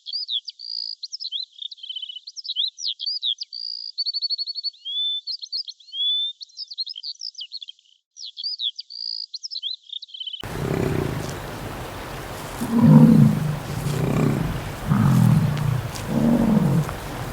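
A small bird's quick high chirps, whistles and trills for about ten seconds, then an abrupt change to a run of low, rough animal calls about once a second.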